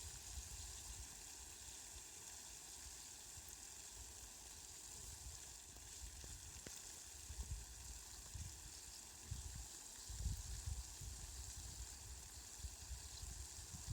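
Steady hiss of falling rain, with irregular low rumbles coming and going in the second half.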